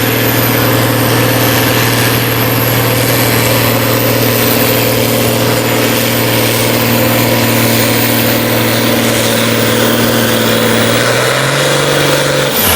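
Heavy diesel engine running steadily at low speed. Its pitch steps up briefly about eleven seconds in, then falls away near the end.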